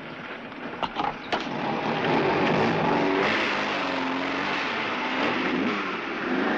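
A few sharp clicks about a second in, then a car engine revving up and accelerating as the car pulls away.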